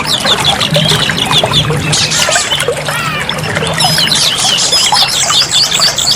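Oriental magpie-robin (kacer) singing a fast, unbroken run of high chirps and quick whistles, over a steady trickling-water sound.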